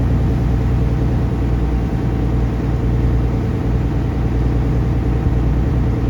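Taxi boat's engine running steadily at a constant speed, a loud, even, deep hum.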